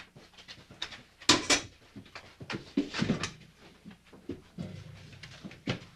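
Scattered small knocks, clicks and rustles of handling in a small room, with two louder knocks about a second in.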